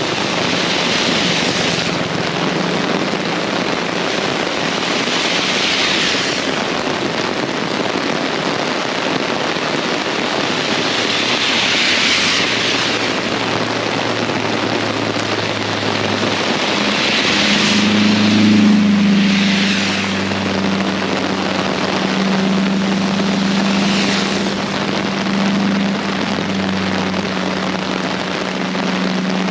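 Heavy rain falling hard and steadily, swelling every few seconds. From about halfway through, a low steady engine hum joins in, loudest a few seconds later, then holding on under the rain.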